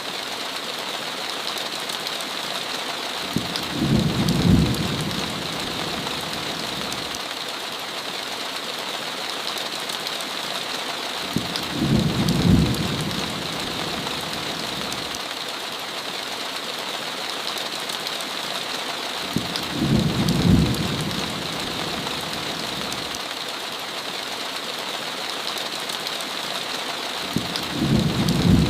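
Steady hiss of heavy rain, with four short low rumbles of thunder evenly spaced about eight seconds apart.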